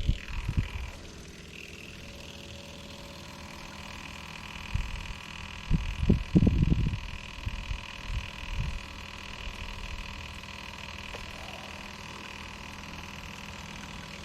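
Electric fuel pump on a Honda Helix scooter running steadily with a constant whine, pumping fuel out of the tank into a jug. Low knocks and bumps sound just after the start and in a louder cluster about halfway through.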